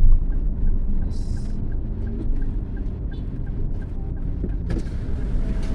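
Low, steady rumble of a vehicle heard from inside it, with a faint regular ticking about twice a second through most of it and a couple of knocks near the end.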